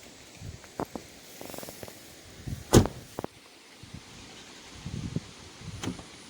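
Car door being shut: a few light knocks and clicks, then one loud thud nearly three seconds in, with a smaller knock just after it.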